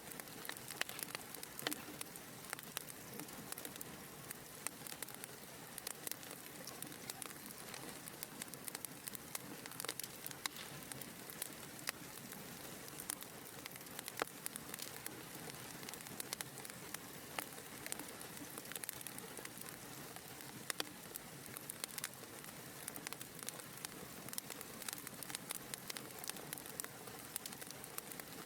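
Wood fire crackling in a fireplace: a steady soft hiss with frequent small irregular pops and snaps.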